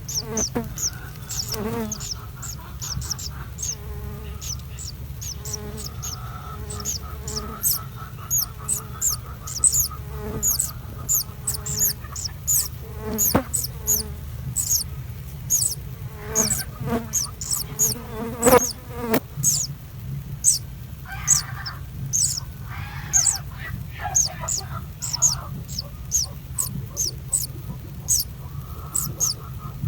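Nestling birds cheeping: a rapid series of short, very high-pitched chirps, about two or three a second, over a steady low hum, with a few sharp knocks in the middle.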